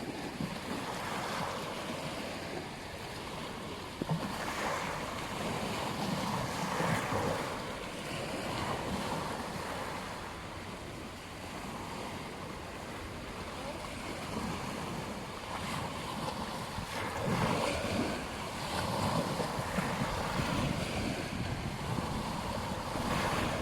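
Ocean surf breaking on a beach: a steady wash of waves that swells louder several times, with no voices or tones.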